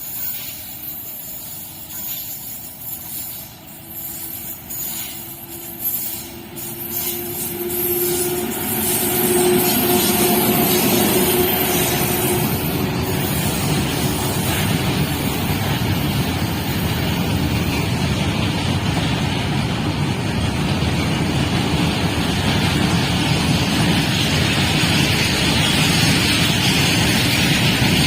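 Indian Railways train approaching and passing at speed: a few sharp clicks at first, then from about eight seconds in a loud, steady rush of wheels on track.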